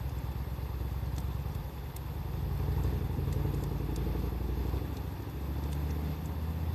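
Wood fire crackling with scattered sharp pops, over a loud low rumble that swells twice.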